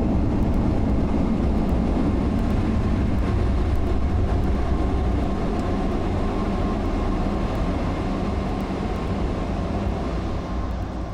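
Automatic drive-through car wash machinery heard from inside the car: a steady rushing roar with a faint steady whine, easing slightly toward the end.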